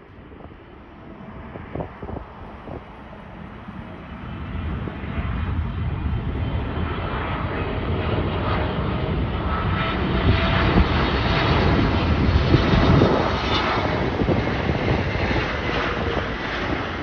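Boeing 777 jet engines running at high power during departure, growing louder over the first several seconds, then holding loud and easing slightly near the end.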